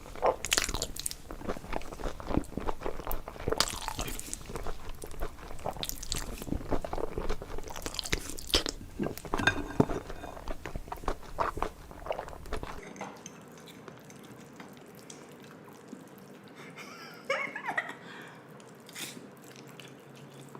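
Close-miked chewing and biting of spicy instant noodles: wet, dense crackling and clicking mouth sounds. About two-thirds of the way through it cuts to a much quieter take with only a few soft mouth or utensil sounds.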